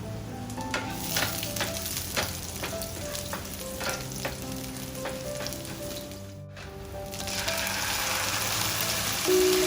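Food sizzling in a frying pan while a utensil stirs it, giving irregular sharp clicks against the pan; the sizzle turns louder and denser about seven seconds in. Soft background music plays underneath.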